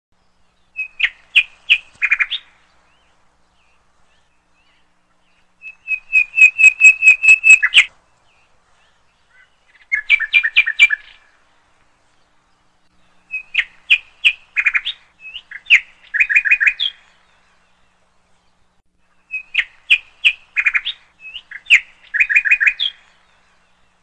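A small bird chirping in quick runs of high chirps, each run lasting a second or two, with silent gaps of a few seconds between them.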